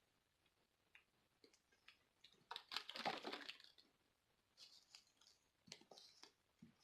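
Faint handling of a plastic bottle cap: scattered light clicks, with a brief crinkling rustle about two and a half seconds in, as the vitamin cap's push button is pressed.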